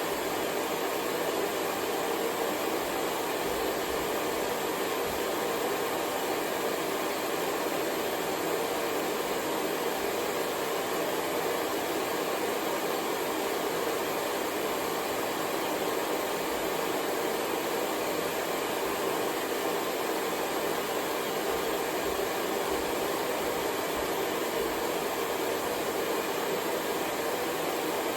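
Hair dryer running at a steady speed: an even rush of air with a faint low motor hum.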